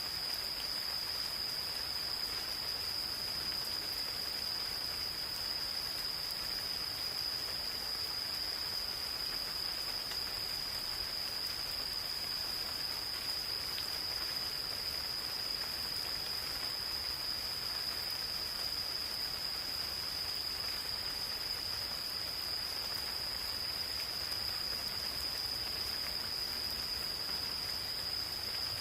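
Light rain falling in a forest, with a steady, unbroken high-pitched trill from calling insects over it.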